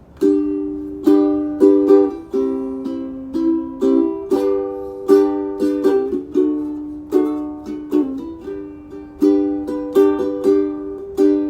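Instrumental intro to a song on a strummed string instrument: chords struck every half second to a second, each ringing and fading before the next.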